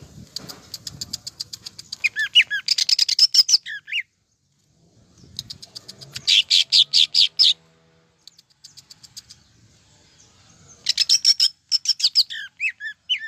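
Green leafbird (cucak ijo) singing in three bursts of fast, harsh repeated notes mixed with quick falling whistles: its rapid-fire 'tembakan' song.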